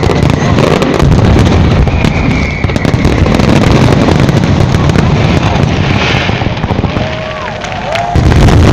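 Fireworks display: a dense, continuous barrage of shells bursting and crackling. It eases off briefly about seven seconds in, then a fresh loud volley comes near the end.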